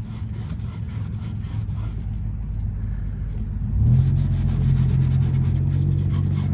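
A vehicle engine running with a steady low hum that grows clearly louder about four seconds in. In the first two seconds there are faint, repeated rubbing strokes.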